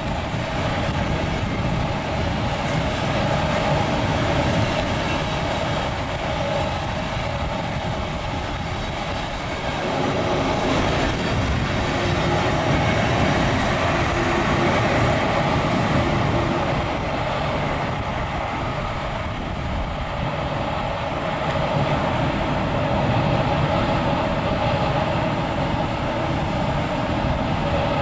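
Electric locomotive-hauled passenger train running past on the rails: a steady, continuous rumble of wheels on track, with a steady tone running through it, swelling and easing gently.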